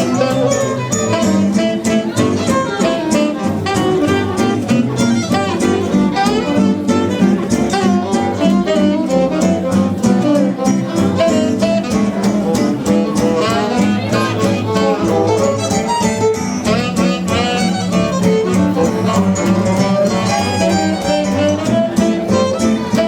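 Small swing jazz band playing live, with a violin carrying the lead over rhythm guitar and upright double bass in a steady beat.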